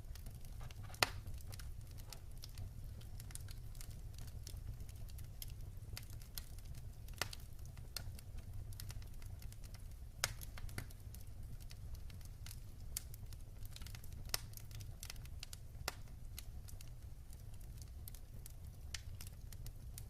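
Wood fire crackling in a fireplace: irregular sharp pops and snaps, the loudest about a second in, over a steady low rumble of the burning fire.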